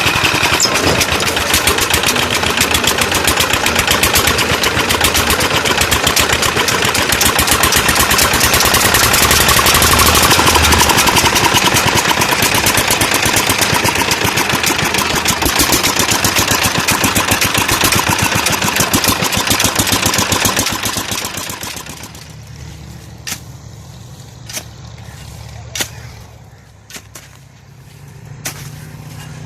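Tube well's Petter diesel engine running loud, with a fast, dense firing knock. About three-quarters of the way through the sound drops to a much quieter low hum with a few separate clicks.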